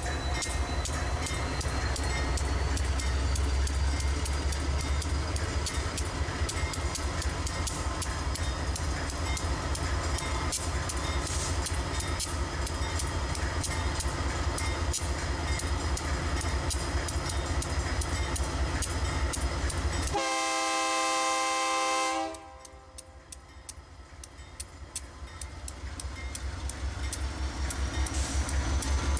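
Freight train passing, led by a GE C44-9W diesel locomotive: deep steady engine rumble with rapid clicking of wheels over the rail. About 20 seconds in a locomotive air horn sounds a chord for about two seconds and cuts off abruptly; the sound then drops and a train grows steadily louder.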